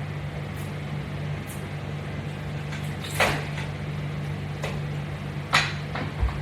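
Steady low hum, with two short scuffing handling noises and a soft low thump near the end.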